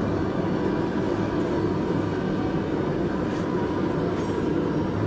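Blacksmith's forge running with a steady, even rushing noise, with a few faint light ticks.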